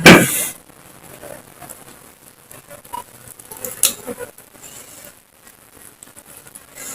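A person eating a meal of raw vegetables: one loud crunchy bite right at the start, then quiet chewing and small mouth clicks, with one sharper click a little before the four-second mark.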